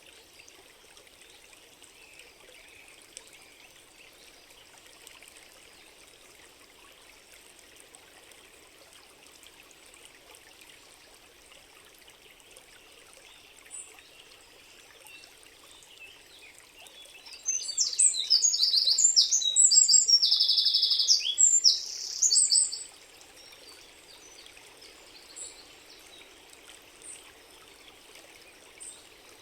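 A stream trickling steadily and softly. A songbird sings a loud run of high, quick trilling notes for about five seconds over it, past the middle.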